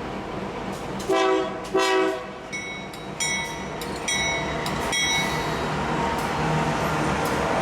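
Diesel freight locomotive horn sounding two short blasts, followed by four short high-pitched ringing tones less than a second apart. After that the locomotive's engine rumble grows louder as the train approaches.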